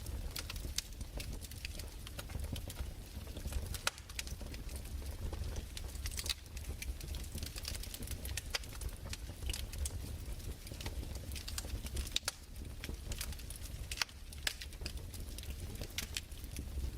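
Crackling fireplace: irregular sharp pops and snaps over a low, steady rumble.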